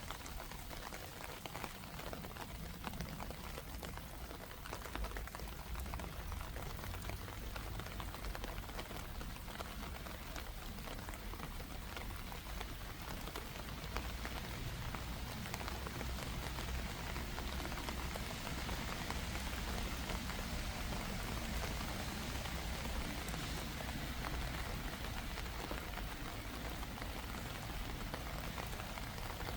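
Steady rain falling, an even patter of many drops that grows a little heavier about halfway through.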